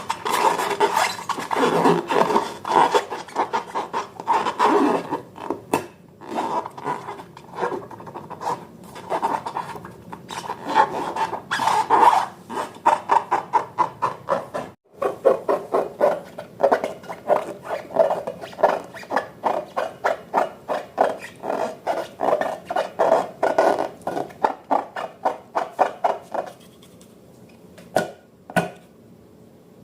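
Slime being stirred and squished by hand: repeated sticky clicking and scraping strokes, settling into a quick run of about three or four a second in the second half. The strokes stop a few seconds before the end, followed by two sharp clicks.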